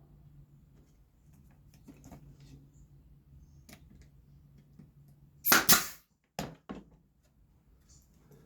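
Light clicks and taps of wood pieces being handled, then three short, loud bursts close together a little past the middle, from a tool being used on the barn pieces.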